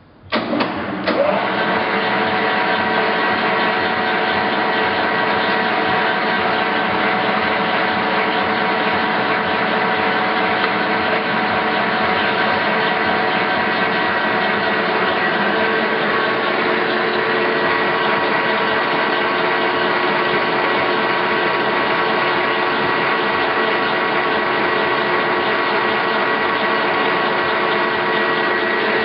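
Victor 20" x 40" engine lathe with a 10 hp motor switched on and running steadily under power. After a couple of clicks it starts abruptly about a second in, then holds an even whine of several steady tones over a loud mechanical hum.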